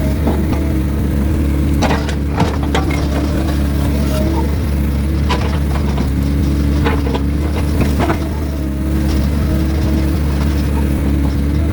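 Excavator's diesel engine running steadily, with scattered sharp knocks and clunks over it, a handful spread through the stretch.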